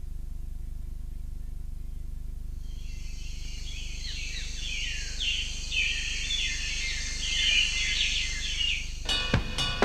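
Birds chirping, many quick calls falling in pitch and overlapping, starting a few seconds in, over a steady low hum. A drum beat starts just before the end.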